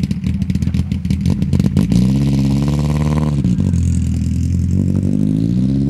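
Car engine revving hard on a snowy drift course: its pitch climbs, drops sharply about three and a half seconds in, then climbs again near the end. For the first two seconds a rapid crackling clatter runs over the engine.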